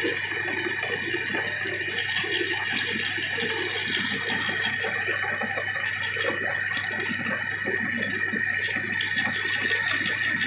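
Meat grinder running steadily while grinding peanuts: a continuous high whine over a rough, uneven churning.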